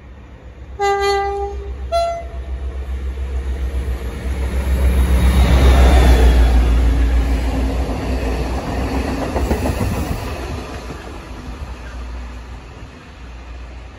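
A locomotive-hauled engineering train sounds its horn: a long low note, then a short higher one. It then runs past, loudest as the locomotive goes by about six seconds in, with the wagons rattling after it and the sound fading away.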